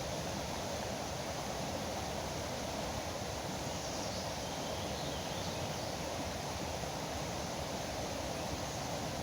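River water rushing steadily, a constant even wash of sound, with a few faint bird chirps above it about four to five seconds in and again near the end.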